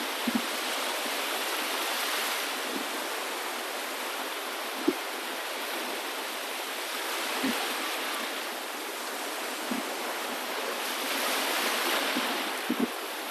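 Rushing water, a steady hiss that swells and eases every few seconds, with a few brief low thuds.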